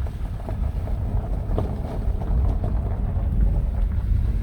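Steady low rumbling noise with a few faint clicks, much like wind buffeting the microphone or a vehicle's road rumble.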